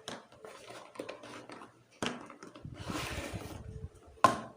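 Cardboard box and packaging being handled and opened to take out a battery charger. There are rustles and clicks, a longer stretch of scraping and sliding about three seconds in, and one sharp knock near the end.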